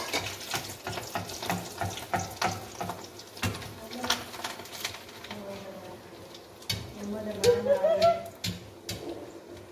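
Food deep-frying in hot oil in a kadhai, a steady sizzle, with frequent sharp clicks of metal tongs against the pan as pieces are turned and lifted.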